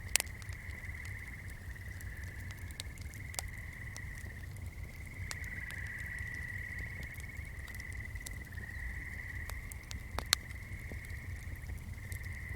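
Swamp chorus: a steady, high, pulsing trill of frogs, broken by scattered sharp crackles and pops of a small fire, two of them louder, just after the start and about ten seconds in. A low steady rumble runs underneath.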